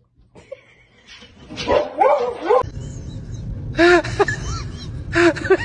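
A dog whining with bending pitch, then giving short, high yelping barks in two quick groups.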